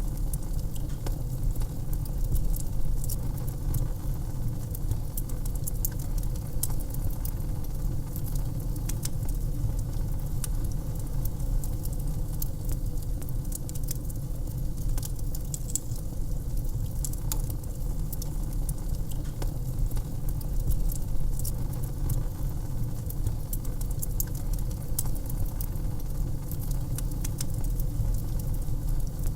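Wood fire in a fireplace crackling, with many irregular sharp pops over a steady low rumble of the burning fire.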